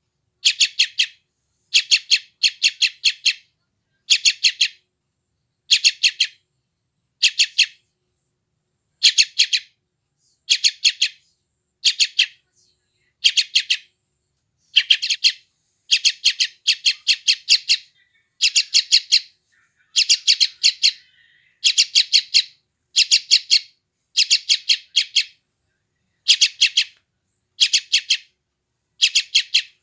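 Yellow-vented bulbul chick calling: short harsh chirps repeated in ones, twos and threes about every second, the begging calls of a hungry young bird.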